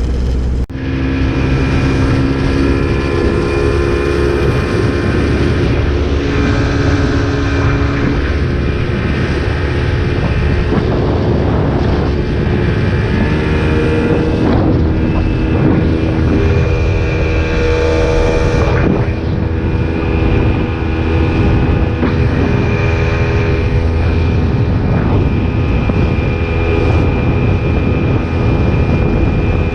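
Motorboat engine running steadily at speed, with a high steady whine over the engine and water noise. An abrupt break just under a second in.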